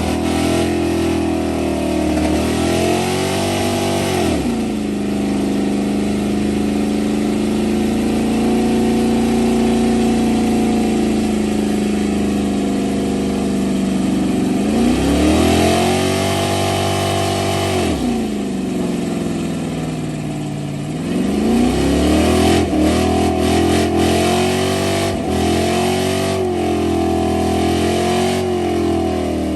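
Truck engine being revved hard. Its pitch climbs and falls several times and holds steady at high revs for several seconds in the middle, with quick blips near the end.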